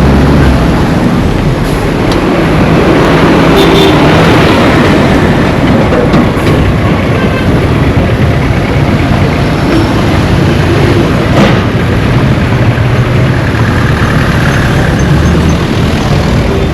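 Street traffic: vehicle engines running under a steady rush of noise, with a single sharp knock about eleven seconds in.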